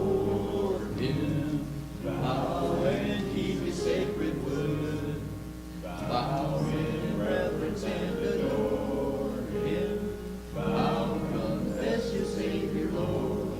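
Congregation singing a hymn together, in sustained phrases with short breaths between them.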